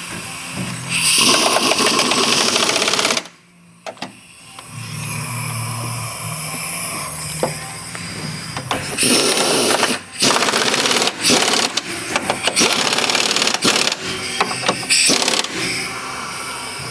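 Pneumatic impact wrench running the strut's upper mount nuts down, first in a long burst of about two seconds, then in many short trigger spurts near the end.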